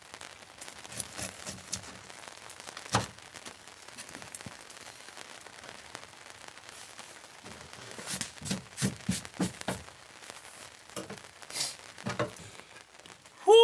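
Scattered clicks and knocks of a crispy, scorched Dutch oven pizza and utensils being handled, with a sharp click about three seconds in and a quick run of crunchy knocks from about halfway through. A steady hiss of rain lies under it all.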